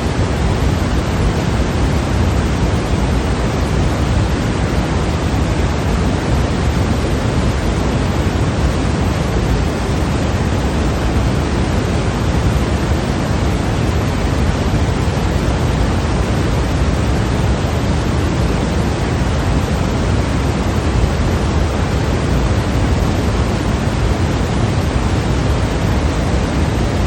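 Steady, unchanging sleep-aid noise, sold as white noise but weighted toward the low end, so it sounds like a deep, even hiss closer to pink noise. There are no changes, beats or other sounds in it.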